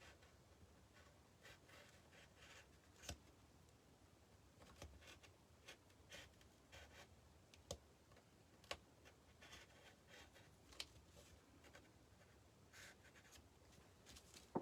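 Faint scratching strokes of a craft blade scoring and cutting material, with scattered small clicks and taps at irregular intervals.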